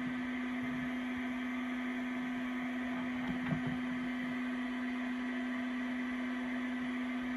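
A small electric motor running steadily: an even hum with a hiss of moving air, and a couple of faint knocks about three and a half seconds in.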